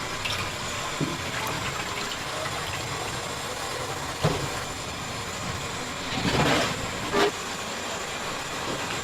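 Steady hiss of chicken deep-frying in hot oil, with a few light clicks and a louder rush of noise about six seconds in.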